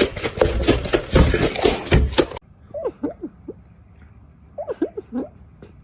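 A loud, dense clattering noise for a little over two seconds, cut off suddenly. Then several short, high dog whines, each a quick rise and fall in pitch, in two small groups.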